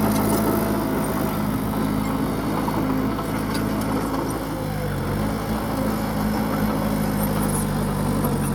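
Heavy diesel engine of an earthmoving machine running steadily, its pitch dipping briefly about halfway through, then recovering.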